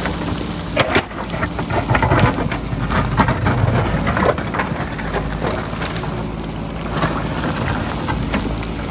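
JCB backhoe loader's diesel engine running steadily under load while its bucket scrapes into rock, with loose stones and gravel clattering, heaviest in the first half.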